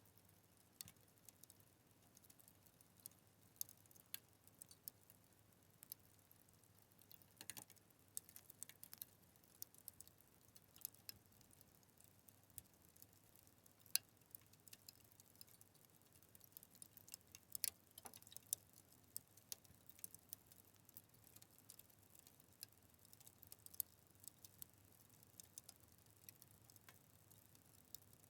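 Fire crackling: irregular sharp pops and snaps, some louder than others, over a faint steady hiss.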